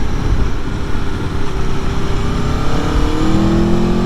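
2021 Aprilia Tuono V4 Factory's V4 engine pulling under acceleration, its pitch climbing from about two seconds in and levelling off near the end, over a steady low rush of riding noise.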